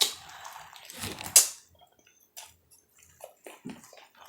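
Close-miked mouth sounds of someone eating noodles: wet chewing and smacking, with one sharper, louder smack about a second and a half in, then scattered soft clicks.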